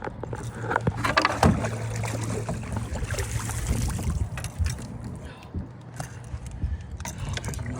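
Scattered knocks and bumps in a jon boat, louder about a second in, over a low steady hum.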